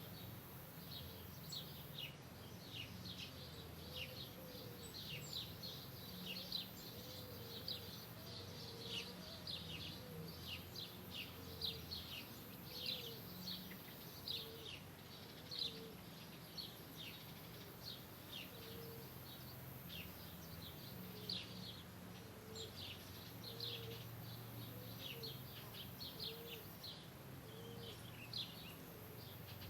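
Birds chirping without a break: many short, high, falling chirps, with lower arched notes repeating about once a second, over a steady low background hum.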